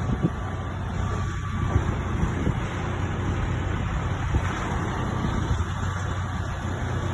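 A vehicle engine running steadily, a low even hum with a few small knocks.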